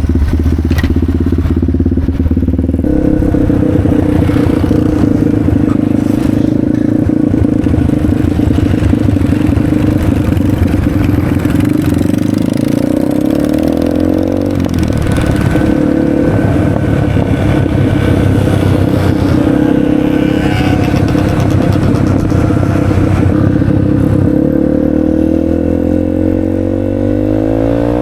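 Motorcycle engines running steadily, with the engine pitch rising and falling in revs about halfway through and again near the end.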